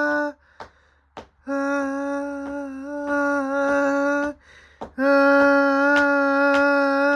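A person humming long held notes, three sustained tones with short breaths between them.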